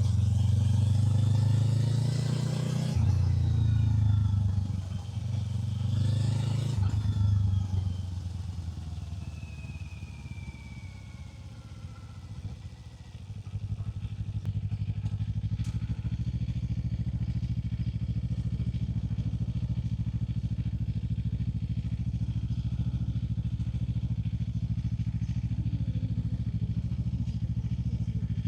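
Kawasaki Z500's parallel-twin engine pulling hard through two quick upshifts, then the revs fall away as it slows. About halfway through it settles into a steady, even running note.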